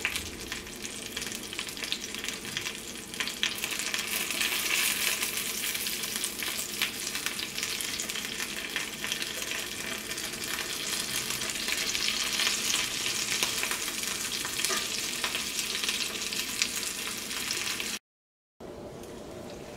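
Stuffed small brinjals sizzling in hot oil in a shallow frying pan while a metal spoon and fork turn them over, with many light clicks and scrapes of metal against the pan. The brinjals are being flipped because one side has started to brown. The sound drops out for a moment near the end and comes back quieter.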